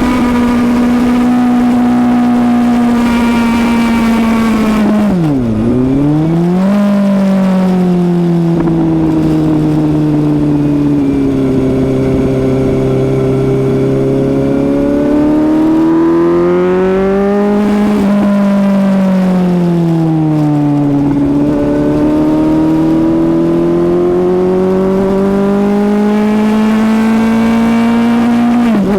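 Suzuki GSX-S750's inline-four engine under way, revs rising and falling, with a quick dip in revs at a gear change about five seconds in and again near the end, and a slow fall in revs around eighteen seconds in before it climbs again.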